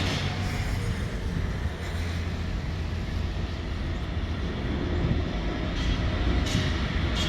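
Passenger train running, heard from inside the carriage: a steady low rumble with a few sharp clacks near the end.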